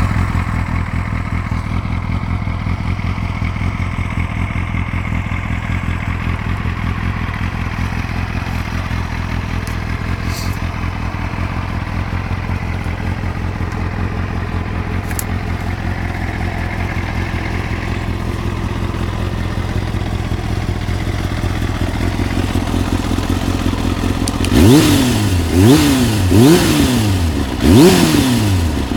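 Kawasaki ZX-7R's inline-four engine running through an Akrapovic aftermarket exhaust, idling steadily, then revved in several quick throttle blips near the end, each rising sharply and falling back.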